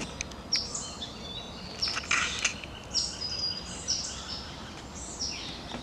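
Wild birds calling: a string of short, high chirps that slide quickly downward in pitch, about one a second.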